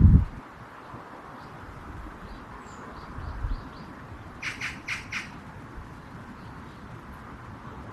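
Bird calls: four short, harsh squawks in quick succession about halfway through, over faint high chirping. A low thump comes at the very start, and a low rumble runs underneath.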